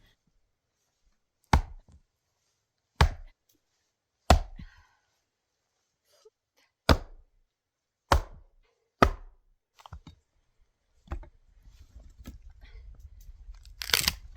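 Axe chopping knotty firewood logs: six sharp strikes in two sets of three, each about a second and a half apart. A couple of lighter knocks and some handling noise follow near the end.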